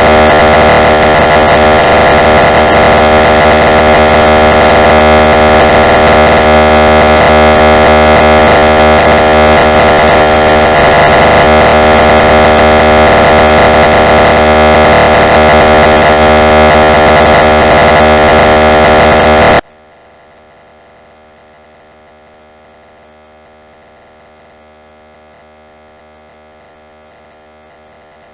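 Very loud, harsh synthesized noise: a dense wall of many steady electronic tones over hiss. It cuts off abruptly about twenty seconds in, leaving a much quieter steady hum.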